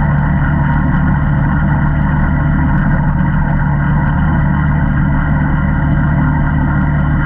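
ATV engine running steadily at an even pitch, with no revving up or down.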